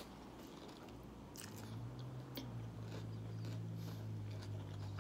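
Close-up mouth-closed chewing of a mouthful of chicken taco with lettuce: faint soft crunches and a few small wet mouth clicks. A low steady hum comes in about a second and a half in.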